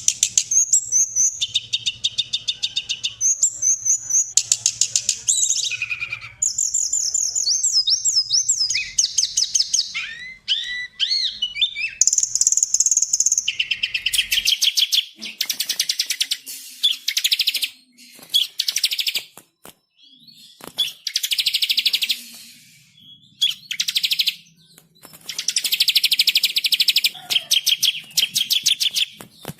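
Recorded songbird songs played one after another as a masteran training track: fast, loud trills and rapid chattering phrases, high-pitched, with a cut to a different recording about halfway through and a few brief pauses after it.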